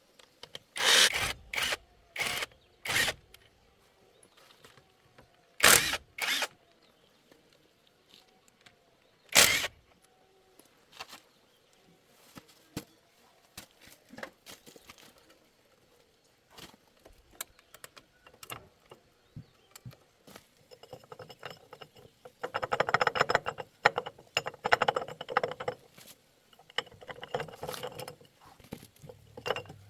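Metal parts and tools being handled on a workbench: a handful of sharp separate knocks in the first ten seconds, then a busier stretch of clinking and scraping near the end.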